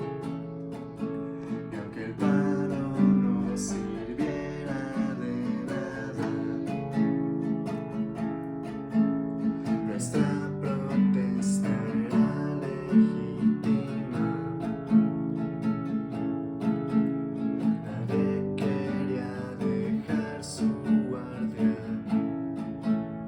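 Acoustic guitar playing, plucked and strummed chords with steady sustained notes.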